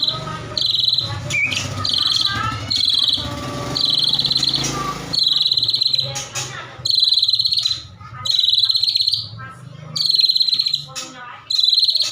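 A songbird repeating a buzzy, trilled call note about once a second, each note lasting around half a second.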